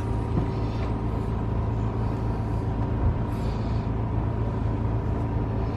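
Steady low machine hum at a constant pitch, unchanging throughout.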